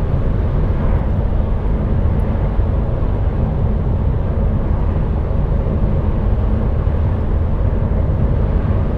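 Container lorry's diesel engine and tyres on the road heard from inside the cab at motorway cruising speed: a steady, even low drone.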